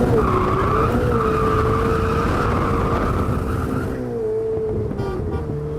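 Supercar driven hard through a bend, its tyres squealing in one long, slightly wavering squeal over the engine, fading about four seconds in.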